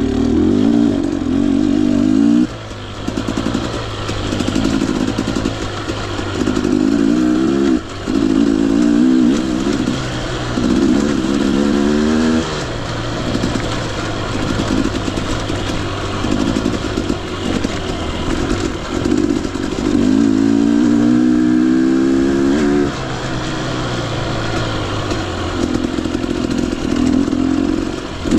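2021 Husqvarna TE 250i two-stroke dirt bike engine pulling hard. Its pitch climbs under throttle and then drops off several times as the rider rolls on and off.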